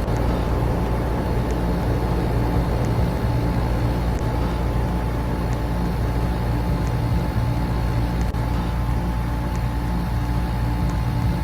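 An air conditioner and electric fans running together: a steady low hum that pulses gently, with a thin steady tone above it. A faint tick repeats regularly, a little more often than once every second and a half.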